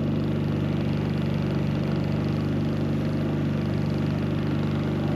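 An engine running steadily at idle, an even unchanging hum with a steady hiss above it.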